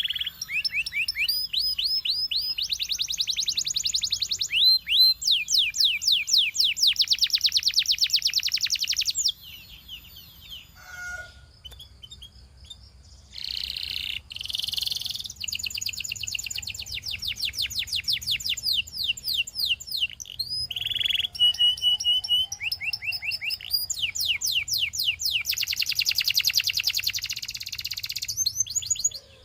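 Canary singing: fast rolling trills of rapidly repeated falling high notes, with a few seconds' lull about ten seconds in before the song resumes.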